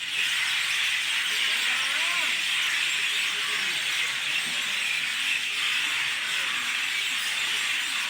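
Dense, steady chatter of many birds calling at once, a continuous high-pitched hubbub with no single call standing out.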